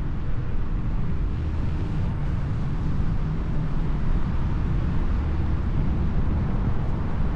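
Steady wind rumble on the microphone with road noise, as from riding along on an electric unicycle.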